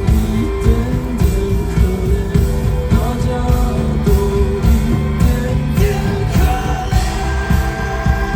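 Rock band playing live: a singer holds sung notes over guitar, bass and a steady drum beat.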